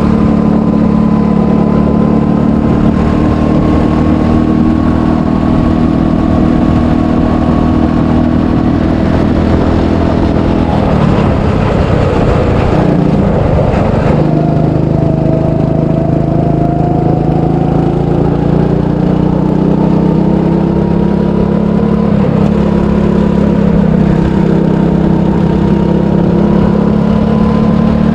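300cc go-kart engine running steadily on a lap. About midway its note breaks up and turns rough for a few seconds, then steadies again and slowly climbs in pitch.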